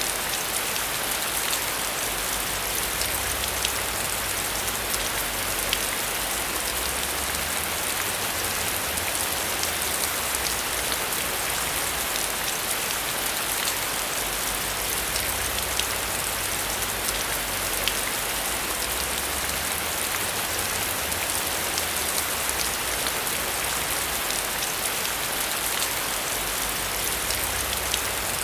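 Steady heavy rain, a dense even hiss, with individual drops ticking sharply all through.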